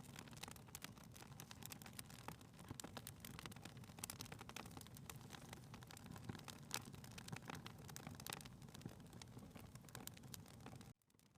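Faint crackling of a wood fire in a fireplace: scattered sharp pops and snaps over a low steady rumble, dropping out briefly near the end.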